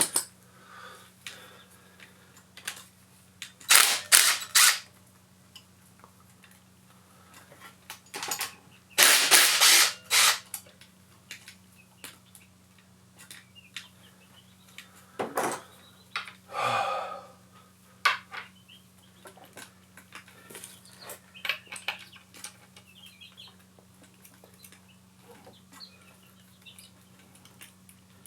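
Mechanic's tools working on the cam sprocket bolts of a Honda VT700C engine: three short, loud bursts of metallic clatter about four seconds in, a longer burst about nine seconds in, then smaller clinks and knocks, over a faint steady low hum.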